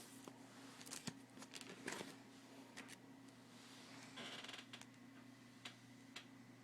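Faint handling of a card binder's plastic sleeve pages: a few soft clicks and a brief rustle about four seconds in, over a low steady hum.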